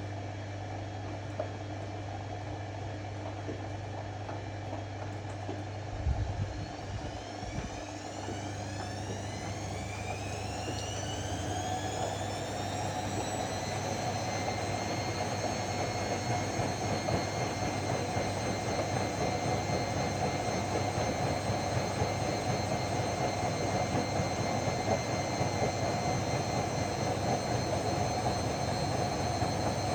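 Ariston AML125 washer-dryer speeding up into its spin: over a low hum, the motor's whine rises in pitch from about six seconds in, then holds steady at full spin speed and grows louder. A knock sounds as the ramp begins.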